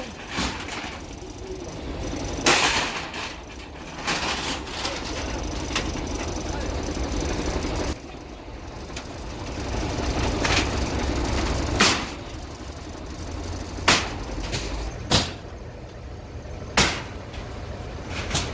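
A heavy machine rumbling steadily, with about eight sharp bangs and clanks at uneven intervals, typical of demolition work.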